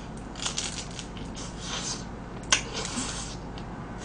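Close-up chewing and biting of a crispy deep-fried giant cheese stick: irregular crunching and mouth sounds, with one sharp click about two and a half seconds in.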